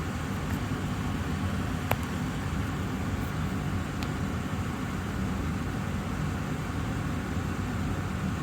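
Austin Air HealthMate air purifier's fan running steadily, an even rushing noise weighted toward the low end. A single sharp click sounds about two seconds in.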